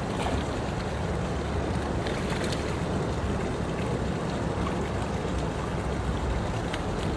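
Boat running at sea, a steady low rumble with a wash of noise over it and a few faint ticks.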